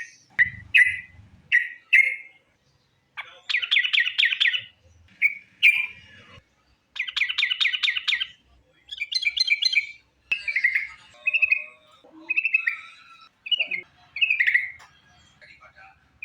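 Yellow-vented bulbul (trucukan) singing: a few short chirps, then two fast rattling trills about four and seven seconds in, followed by a run of varied whistled notes.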